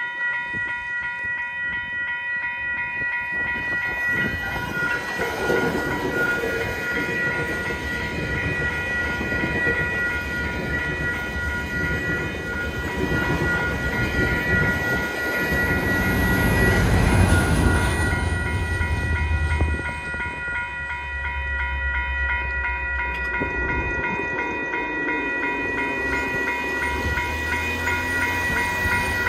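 GO Transit push-pull commuter train with an MP40PH diesel locomotive passing at speed, rumbling and clattering over the rails, building to its loudest about halfway through with a high whine that slides down in pitch, then a low drone as the rest of it goes by. The level-crossing warning bell rings in a steady pulsing pattern throughout.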